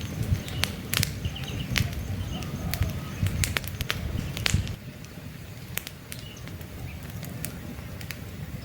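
Wood campfire crackling, with irregular sharp pops and snaps over a low rumble that drops away about halfway through. Faint bird chirps sound in the background.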